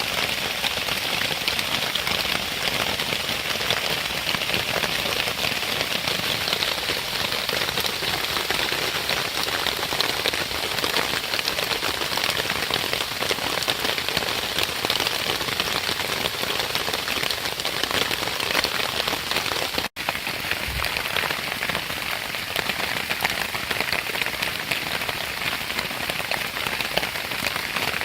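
Steady rain falling, a dense hiss of many small drop ticks, broken by a momentary drop-out about twenty seconds in.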